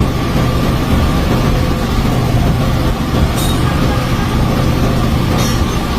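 Workshop machinery running steadily and loudly with a constant hum, starting abruptly.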